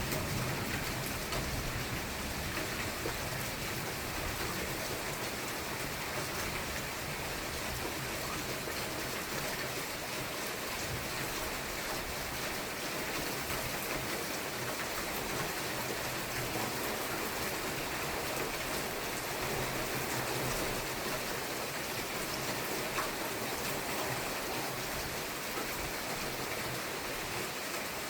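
Steady rain falling during a thunderstorm. A low thunder rumble trails off over the first several seconds.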